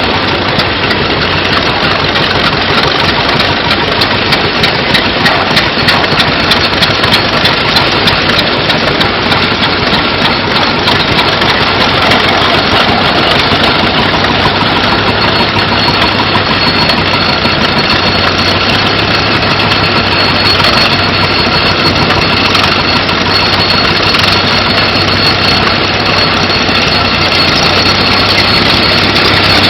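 An engine running steadily with a fast, even beat, getting a little louder near the end.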